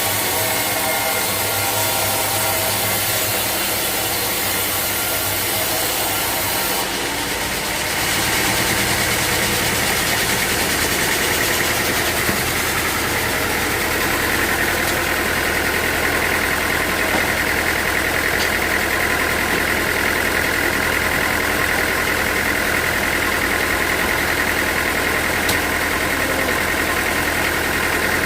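Sawmill machinery running steadily, its sound shifting and getting slightly louder about seven to eight seconds in, after which a steady higher whine joins the running.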